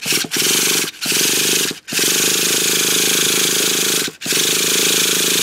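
Traxxas T-Maxx nitro engine being spun over by its starter in repeated bursts with short breaks, without catching. The owner takes the cause to be fuel not getting to the line.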